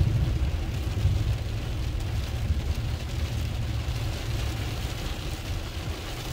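Low rumble of a truck driving through a flooded street, with a hiss of rain and water spray; it slowly grows quieter.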